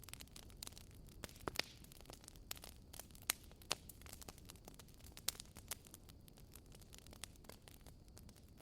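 Wood fire crackling in a fireplace: irregular sharp pops and snaps, a handful of them louder, over a soft low steady noise.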